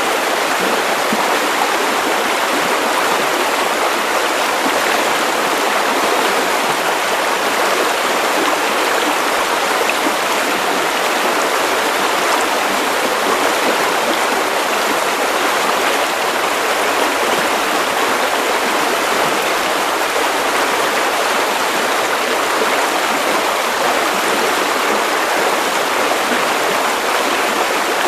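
Steady white noise for sleep: an even, unchanging rushing hiss with little deep bass, much like running water.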